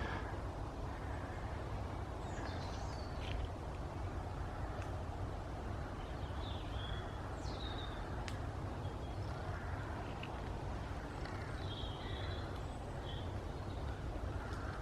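Birds calling now and then, short high calls, some sliding downward, over a steady low rumble.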